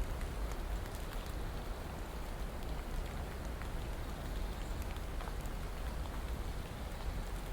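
Steady rain falling, an even hiss with many small scattered drop ticks over a low rumble.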